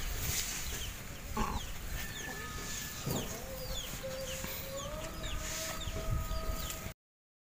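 Birds chirping, with many short high falling chirps a second. From about three seconds in a long held tone sounds over them, and all sound cuts off suddenly near the end.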